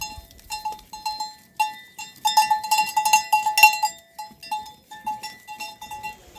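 Metal neck bells on livestock clanking irregularly as the animals move. The strikes come quickest and loudest in the middle and thin out towards the end.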